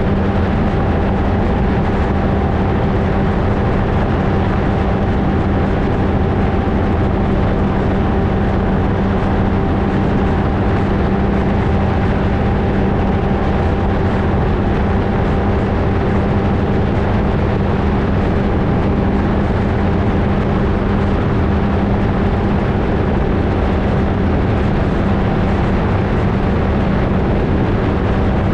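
Flightstar II ultralight's engine running at a steady, unchanging speed, a constant-pitched drone with heavy rushing noise from the airflow around the camera.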